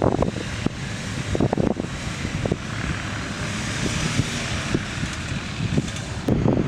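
Off-road vehicle engine running under wind noise on the microphone, with scattered short thumps; it grows louder near the end.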